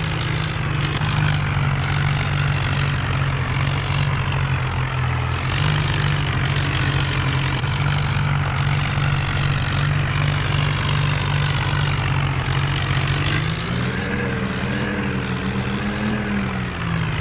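Tractor engine running steadily, its pitch rising and wavering for a few seconds near the end before settling back.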